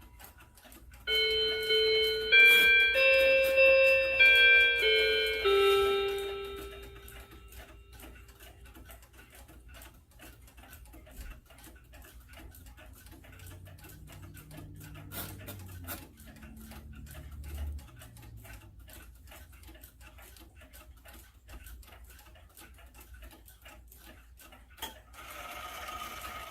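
Seth Thomas beehive mantel clock ticking steadily. A short melody of pitched notes plays over it in the first few seconds.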